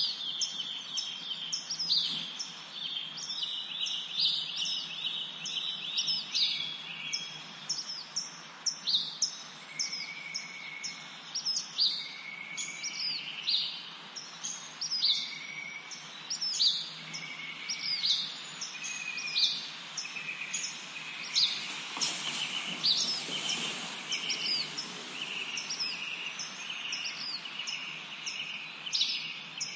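Small birds chirping: a steady run of short, high chirps about once or twice a second, mixed with lower whistled notes and trills, and a brief rush of noise a little past two-thirds through.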